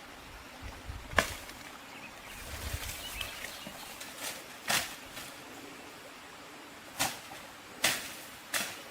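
Five short, sharp knocks or swishes at uneven intervals over a quiet background, the loudest about a second in.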